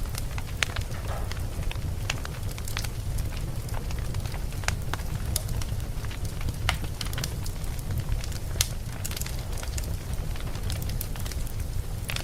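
Wood campfire burning, with frequent sharp, irregular crackles and pops over a steady low rumble of the flames.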